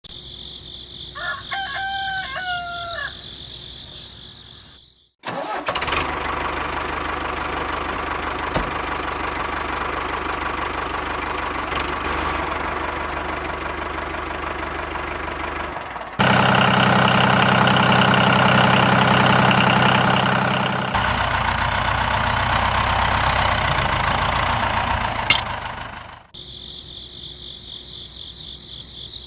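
A rooster crows over steady cricket chirring. About five seconds in this cuts to the loud, continuous running of a small machine, likely the mini tractor and chaff cutter's motor. It grows louder with a stronger low hum for about five seconds in the middle, then cuts back to crickets near the end.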